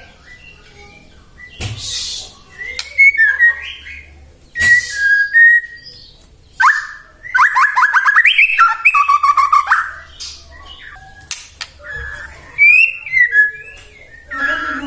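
White-rumped shama (murai batu) singing a varied song of clear gliding whistles broken by harsh rasping calls, with a fast run of repeated notes in the middle.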